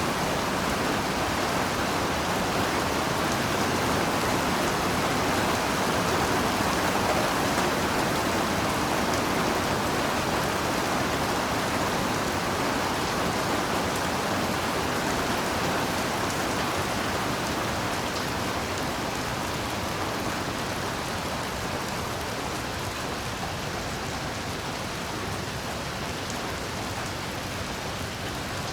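Heavy rain falling steadily as an even rushing hiss with drop patter. It eases slightly in the second half.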